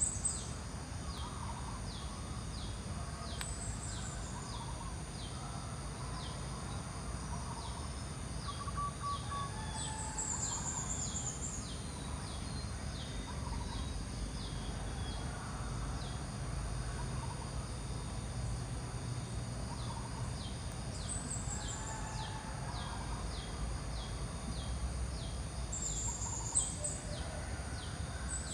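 Outdoor bird calls: short, high, falling chirps repeat every few seconds, with fainter calls lower down. Under them run a steady high ticking about once or twice a second and a constant low rumble.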